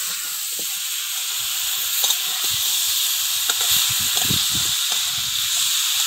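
Chunks of green banana coated in turmeric and salt sizzling in hot oil in a metal wok, being sautéed. A metal spatula stirs and scrapes them against the pan in irregular strokes from about a second and a half in.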